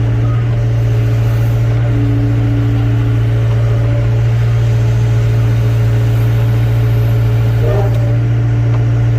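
Excavator's diesel engine running at a steady, deep drone while a slung load is lowered slowly.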